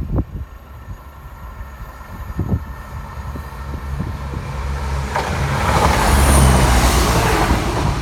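Class 170 Turbostar diesel multiple unit passing close, its underfloor diesel engine humming and a rushing wheel and air noise building to a peak about six seconds in, with wind buffeting the microphone.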